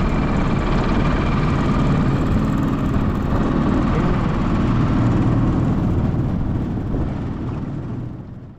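Small boat's outboard motor running steadily while the boat is underway; the sound fades away near the end.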